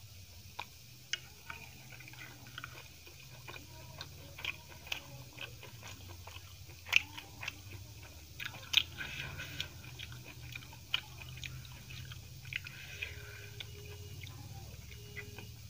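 Close-miked chewing and mouth sounds of someone eating a giant steamed veg momo with chutney. Irregular wet clicks run throughout, the sharpest about seven and nine seconds in, over a steady low hum.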